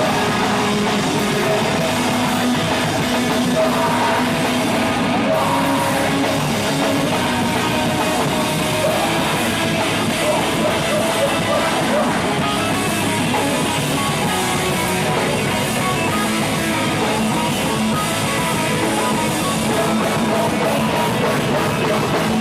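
Live rock band playing loud, with electric guitar, bass and drum kit; possibly voices singing over it.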